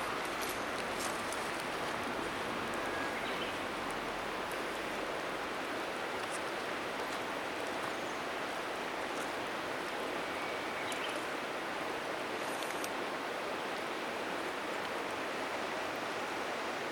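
Steady rush of a flowing river, with a few faint, sharp crackles from the wood bonfire now and then.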